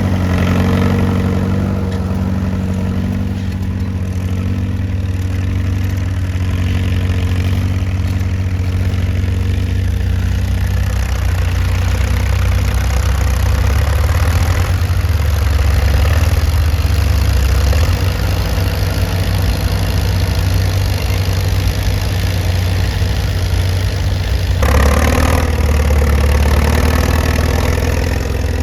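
Antique farm tractor engine running steadily while plowing. Near the end its note changes and the sound gets suddenly brighter and a little louder.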